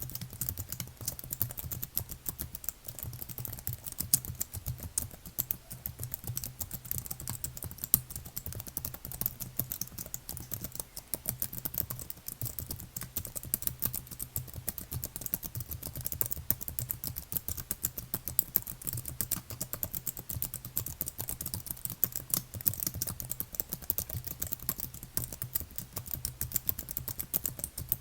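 Continuous fast typing on a computer keyboard: a dense, steady stream of key clicks with a soft low thud under each keystroke.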